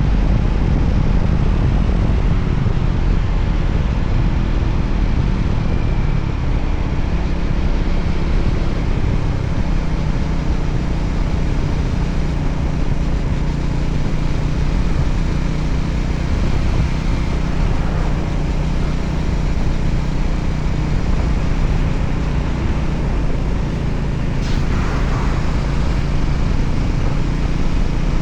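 Voge 300ACX motorcycle's single-cylinder engine running steadily while riding, under rushing wind and road noise. A brief rushing sound stands out about three-quarters of the way through.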